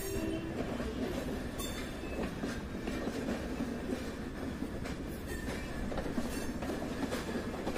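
Two passenger trains rolling slowly side by side, heard from aboard one of them: a steady rumble of wheels on the rails with a few faint clicks as they pick up speed.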